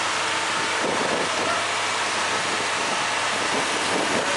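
Citroën C5 diesel engine running at raised revs on its own during a forced particulate-filter regeneration, a steady exhaust hiss over a low hum as the cleaning additive burns off and smoke builds.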